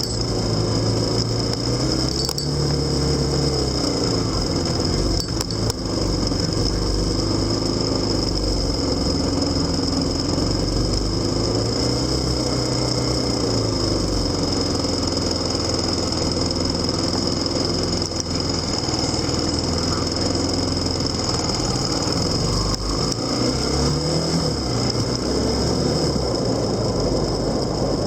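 Motorcycle engine running on the move, its pitch rising and falling several times as the throttle and speed change. A steady high-pitched whine sits over it throughout.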